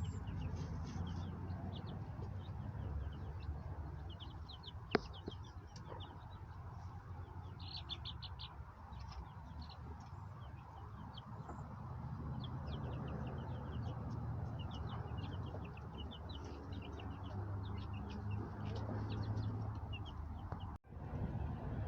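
Hens and roosters in a coop, with many short, high chirps and clucks scattered throughout over a low rumble. A single sharp click sounds about five seconds in.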